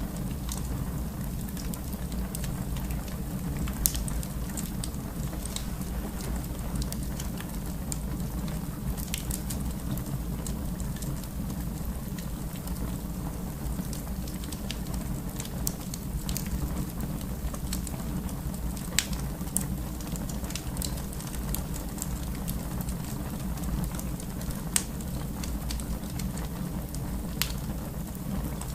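Wood fire in a fireplace crackling: irregular sharp pops and snaps over a steady low rumble, with a few louder pops.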